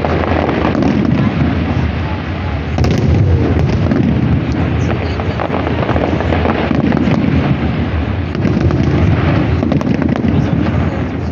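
Fireworks salute going off without a break: a dense, steady run of bangs and crackling.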